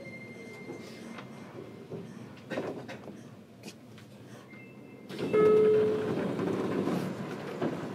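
Inside a JR Kyushu 303 series electric train car: a motor whine falling in pitch fades out just after the start over low running rumble, as the train slows. About five seconds in comes a sudden louder rush with a brief steady tone, which then eases off.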